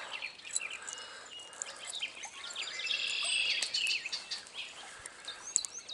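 Several songbirds chirping and singing over a steady background hiss, with the calls busiest about halfway through.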